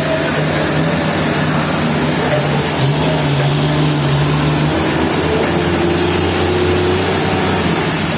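Sawmill engine running steadily under a loud wash of noise, its note shifting up and down a little.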